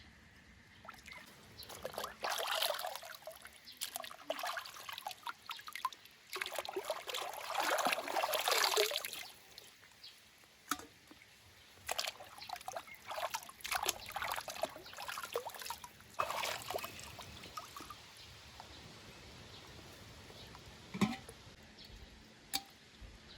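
Water poured or trickling in several separate stretches, the longest lasting a couple of seconds, with one sharp knock near the end.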